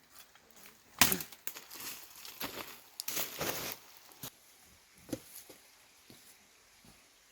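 Irregular sharp knocks and cracks, the loudest about a second in, with a rustling, scraping stretch around three seconds in and a few lighter knocks after it.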